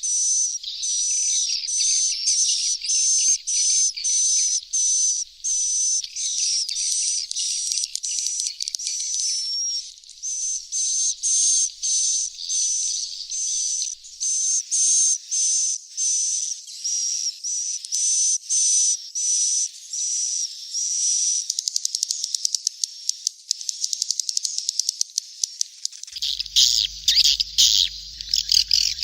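Swiftlet chick calls from a swiftlet-house lure recording: a shrill chirp repeated about twice a second. Near the end they give way to a fast run of clicks, then a louder, denser twittering.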